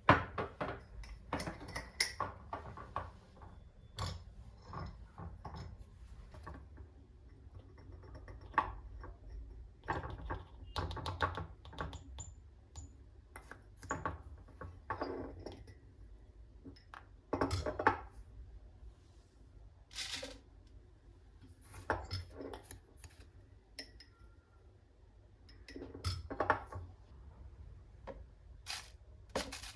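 Kitchenware being handled: dishes and utensils clinking and clattering in irregular, scattered knocks, the sharpest right at the start and again a little past halfway.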